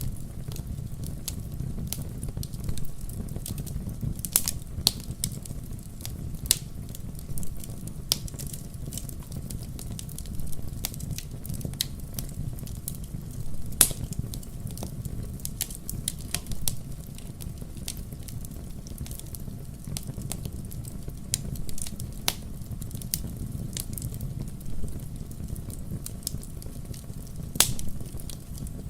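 Wood fire crackling in a fireplace: irregular sharp pops and snaps over a steady low rumble of burning, with a louder pop about halfway through and another near the end.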